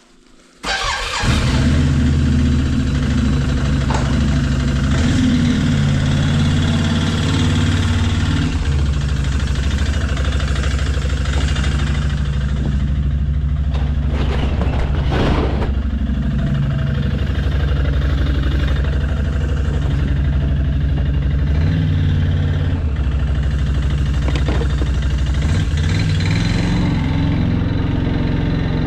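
A small vehicle's engine starts about a second in and then runs steadily, its pitch shifting up and down a few times.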